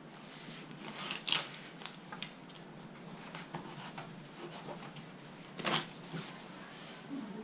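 Light scrapes and rustles of hand work on a foam model-glider wing, scattered and irregular, with two louder scrapes about a second in and just past the middle.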